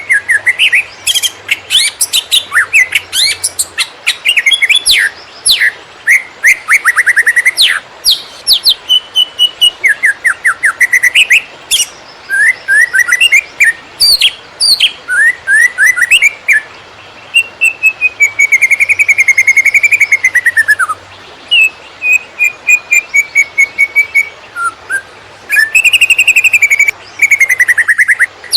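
Green leafbird (cucak ijo) singing hard in the excited 'konslet' style: a continuous run of rapid, varied phrases of sweeping whistles, quick trills and chattering notes, with only brief pauses between phrases.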